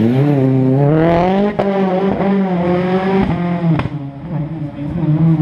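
Rally car engine running hard through its revs, the pitch rising and falling with throttle and gear changes, with two sharp cracks, one about a second and a half in and one near four seconds. The revs settle into a steadier, lower note near the end.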